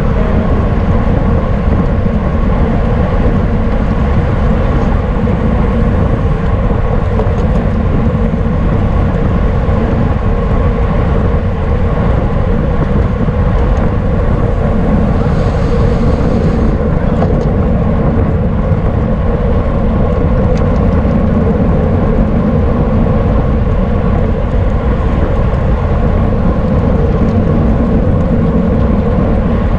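Steady rush of wind buffeting the microphone of a camera carried on a bicycle at racing speed, mixed with road and tyre noise. A brief hiss rises over it about halfway through.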